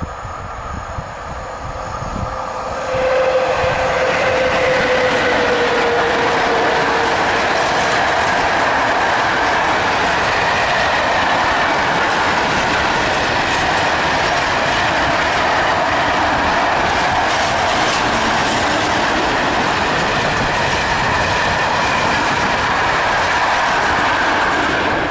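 Freight train of loaded coal gondola wagons behind a PKP ET22 electric locomotive passing close by. The noise swells over the first three seconds into a steady rumble and clatter of wheels on rail joints, with a tone that falls slightly in pitch over the next few seconds and a thin high wheel squeal running under it.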